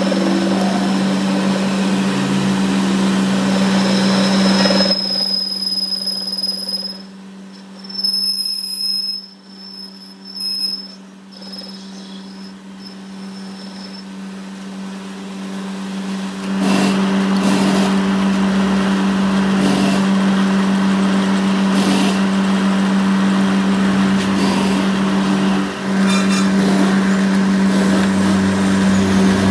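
Shop machinery running with a steady hum and a thin high whine. It goes quieter for about ten seconds in the middle, with the whine coming and going, then comes back up to full level.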